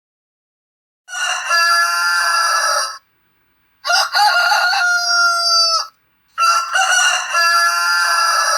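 Rooster crowing three times, each crow about two seconds long, the second ending in a falling tail.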